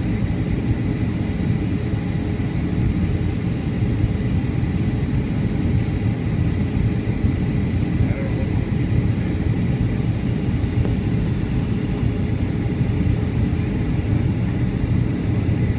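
Steady cabin noise of a Boeing 757-200 in flight: a low, even rumble of engines and airflow, with a faint high steady tone over it.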